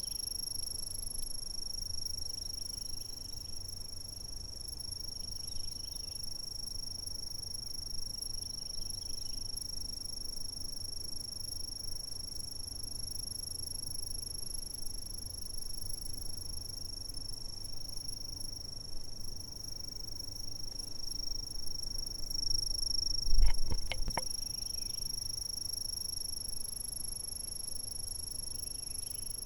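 Chirping insects keep up a continuous, steady, high-pitched trill, with fainter short chirps repeating every couple of seconds under a low background rumble. A single loud low thump comes about three-quarters of the way through.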